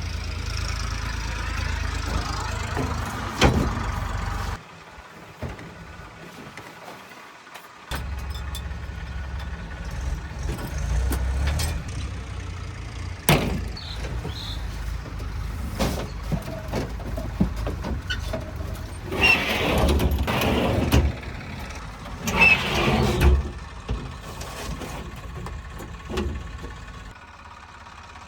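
Heavy tractor engine running, with several louder surges as it works. The sound drops away abruptly for about three seconds and then comes back, and there are a few sharp knocks.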